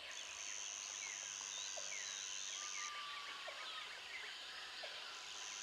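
Jungle ambience: many small bird chirps over a steady high insect buzz, which stops about three seconds in and returns near the end.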